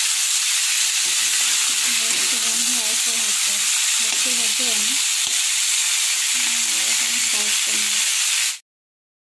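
Ridge gourd and potato pieces frying in hot oil in an iron kadai, a steady sizzle as they are stirred with a metal spatula. The sizzle cuts off abruptly near the end.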